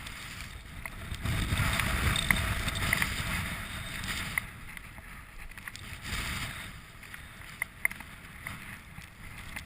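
Wind gusting against the microphone, a low buffeting rumble that swells about a second in and eases after about four seconds, with a smaller gust near six seconds. Scattered faint clicks and crunches sound over it.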